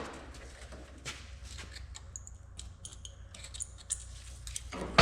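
Metal parts and tools being handled: scattered light clicks and a few brief high metallic rings over a steady low hum, with a loud knock right at the end.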